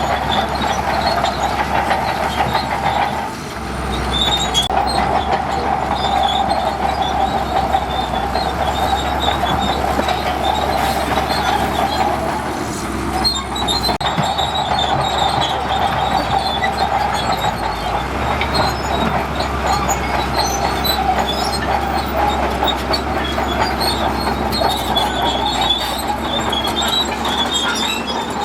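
Crawler bulldozer working, its engine running under a steady squeal and clank from the steel tracks, with two brief dips in level, one a few seconds in and one about halfway.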